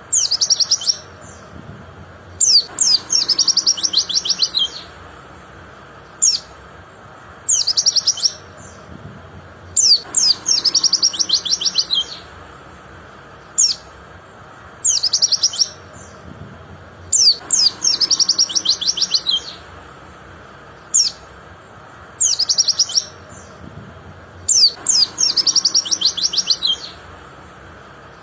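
White-eye (pleci) singing: high, rapid twittering phrases of one to two seconds, each opened by a few sharp chirps, repeating in a regular cycle about every seven to eight seconds.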